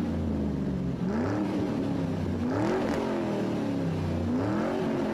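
Car engine revved over and over, its pitch climbing and falling back about four times, roughly every second and a half.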